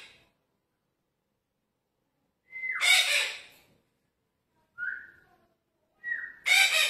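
Red-breasted parakeet calling twice, each call a whistle-like note that drops in pitch followed by a loud, harsh squawk. A short higher whistle comes between the two calls, a little before five seconds in.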